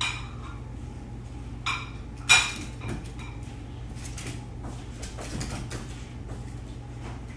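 A few sharp clicks and knocks over a steady low hum, the loudest about two seconds in.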